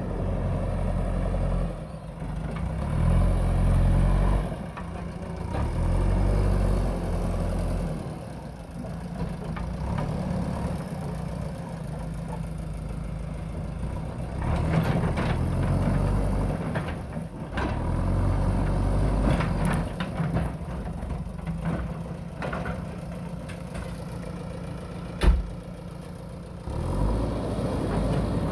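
JCB backhoe loader's diesel engine running under changing load, swelling and dropping every second or two as the machine works. Scattered knocks and clatter come mostly in the middle stretch, with one loud sharp knock near the end.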